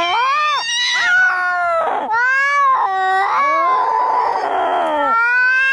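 Angry cats caterwauling in a fight: long drawn-out yowls that bend up and down in pitch, with a harsher, raspier stretch around four seconds in.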